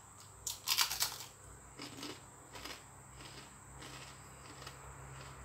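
Crispy fried chicken skin being chewed: a cluster of loud crunches about half a second in, then fainter crunches a few more times.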